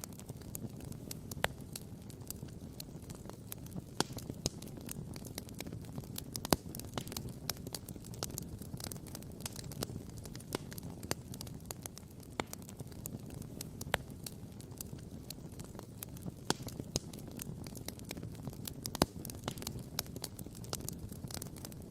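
Wood campfire crackling and popping: sharp snaps come irregularly, several a second, over a steady low rumble, with a few louder pops.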